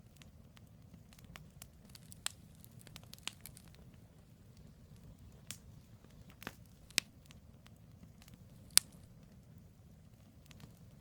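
Campfire of firewood logs burning with a low steady rumble of flame and scattered sharp crackles and pops, the loudest pop about nine seconds in.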